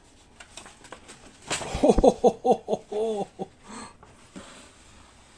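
A dog gives a string of short whines and grunts, just after a loud rustle and knock from handling the kit's contents.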